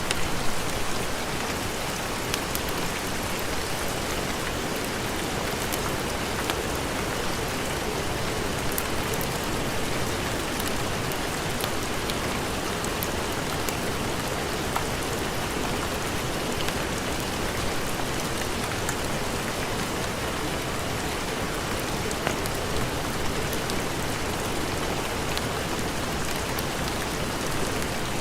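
Steady heavy rain, an even hiss with scattered sharp ticks of drops.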